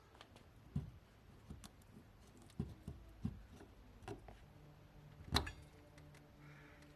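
A few scattered knocks and clicks at uneven intervals, the loudest about five and a half seconds in, with a faint steady hum starting about four and a half seconds in.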